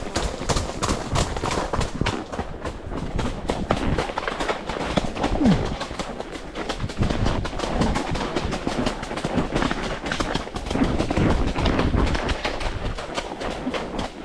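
A horse's hoofbeats in a quick, uneven run of strikes, heard from the saddle, over a low rumble.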